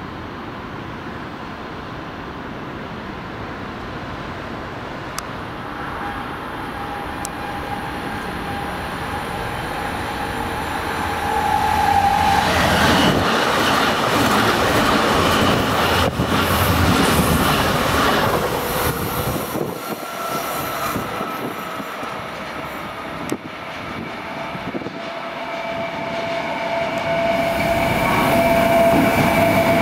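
Two S-Bahn electric multiple units approach on parallel tracks with a whining tone and pass close by, loudest for several seconds past the middle as the wheels clatter over the rails. Near the end a DB class 152 electric locomotive hauling an intermodal freight train comes in, and a new whine rises.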